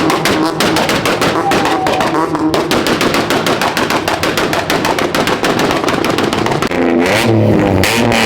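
A car engine held at high revs with a rapid, machine-gun-like stutter of exhaust pops, about ten a second, typical of bouncing off the rev limiter. About seven seconds in the stutter stops and the engine note revs up and down.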